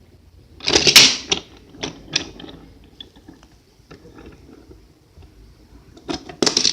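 Toy trains clattering and clicking as they are pushed against each other and handled: a loud burst of clatter about a second in, scattered lighter clicks, then another burst near the end.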